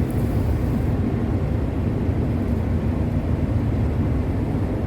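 Steady low drone of a long-haul truck's engine and tyre noise, heard inside the cab while driving.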